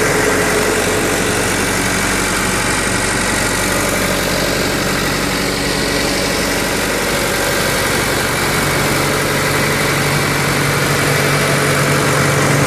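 Diesel engine of a Lincoln Air Vantage 500 welder/generator/compressor running steadily, with a low note that grows stronger about eight seconds in.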